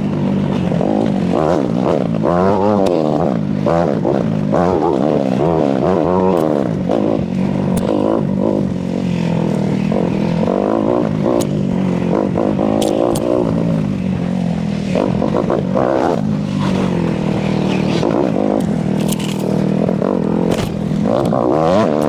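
Ataki DR 250 enduro motorcycle's engine revving up and down again and again under load, as the bike fights for grip on a slope, with a few sharp clicks in the middle.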